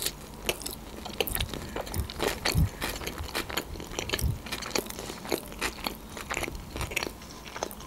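A person chewing a fried sushi roll with the mouth closed: irregular crunching and crackling of the fried crust, with a few louder crunches about two and a half and four seconds in.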